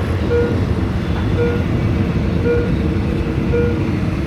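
Train rumbling past with a loud, steady low rumble, while a level-crossing warning signal beeps about once a second.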